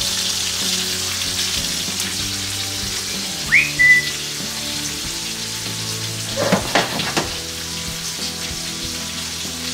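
Corn and chicken thighs sizzling in hot skillets on a stovetop, a steady frying hiss. A short whistle rises and then holds briefly a few seconds in. A few sharp knocks follow around two-thirds through as the skillet of corn is tossed.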